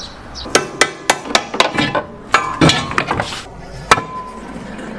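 Metal tools clinking and tapping on a car's front wheel hub as the ABS sensor is taken out: a run of sharp clinks, then one harder metallic strike about four seconds in that rings briefly.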